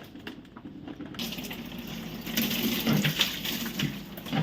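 Water splashing and running while a fridge is washed: a steady hiss that comes in about a second in, with small knocks and clinks of things being handled.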